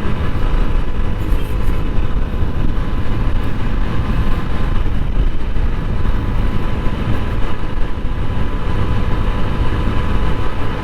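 TVS Apache RTR 160 4V's single-cylinder engine running steadily while the bike is ridden at road speed, mixed with wind rush on a helmet chin-mounted camera microphone. The engine has a tappet that was left loose, which the rider says makes an audible tappet noise.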